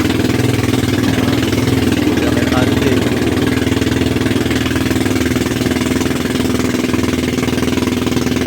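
Motorized outrigger boat's (bangka's) engine running steadily under way at sea.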